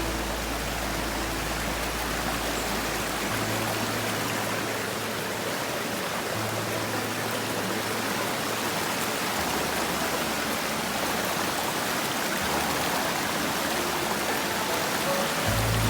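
Steady rush of a fast-flowing stream. Soft background music sits underneath, with low held bass notes that change every few seconds.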